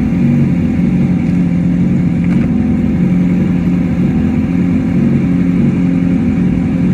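Motorcycle engine running steadily at an even speed, its low hum holding one pitch.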